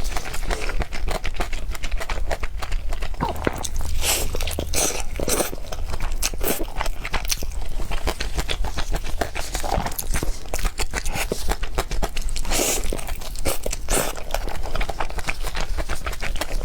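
A person chewing and biting food close to the microphone: a dense, continuous run of crunches and mouth clicks.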